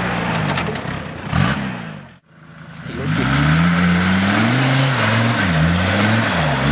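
Off-road 4x4 engine revving, its pitch rising and falling as it works. About two seconds in the sound cuts out briefly, then an engine comes back louder, revving up and down.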